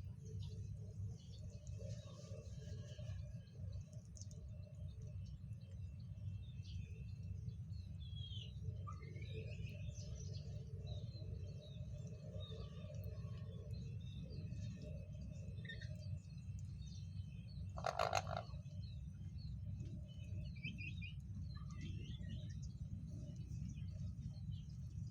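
Birds chirping in short scattered notes, with one short, loud call about eighteen seconds in, over a steady low hum.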